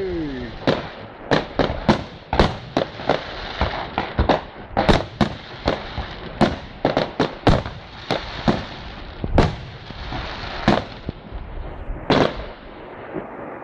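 Fireworks display going off close by: a rapid, irregular barrage of sharp bangs over continuous crackling, thinning out near the end with one last loud bang.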